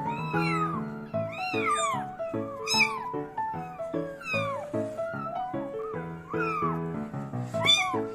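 Kittens mewing over and over, in short high calls that rise and fall and sometimes overlap, over background music with steady stepped notes.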